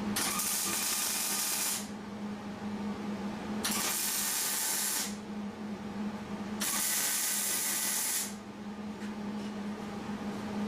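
MIG welder arc sizzling on steel roll-cage tubing in three short welds of about a second and a half each, with a steady low hum underneath.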